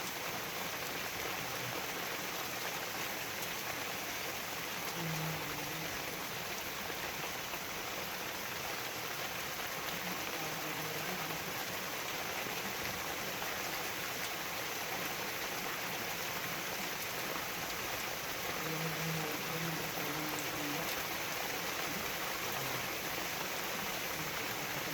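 Steady rain falling, an even hiss of drops that holds unchanged throughout, with a few faint low sounds now and then.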